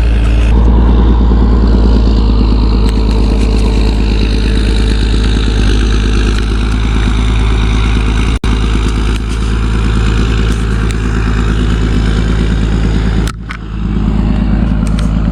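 A motor vehicle engine running steadily close by, which cuts out briefly twice: once for an instant about eight seconds in, and for about half a second near the end.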